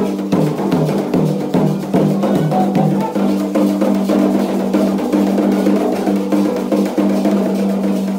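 Candomblé ritual drumming: hand drums beating a fast, steady rhythm over a held low note.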